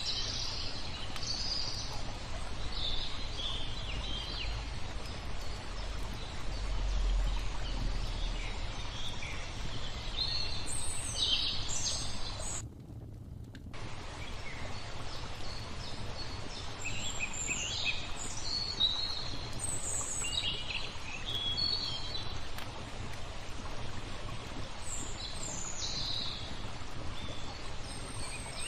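Small songbirds chirping and twittering over a steady hiss of flowing water. The birds and water cut out for about a second near the middle.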